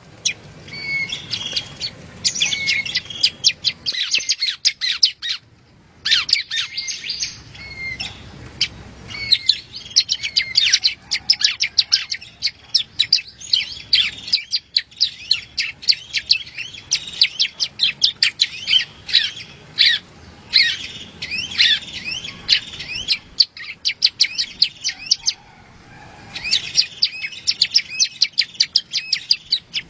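Yellow-bellied prinia (prenjak rawa) singing: a fast, nearly continuous run of high, sharp chirps and trills, with brief lulls about five seconds in and again around twenty-four seconds in.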